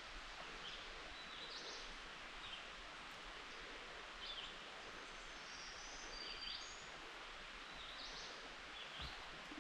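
Faint forest ambience: a steady hiss of the creek running, with songbirds giving short chirps and whistles several times.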